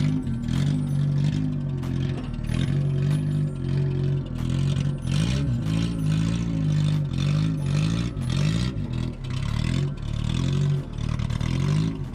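Car engine revving up and down repeatedly under load as the car is driven up onto a trailer, with scattered clatter and scraping over it.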